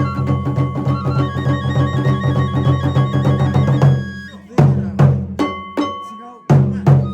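Kagura festival music: taiko drums with a bamboo flute holding steady notes. A fast, dense drum pattern breaks off about four seconds in into single heavy strikes, roughly two a second.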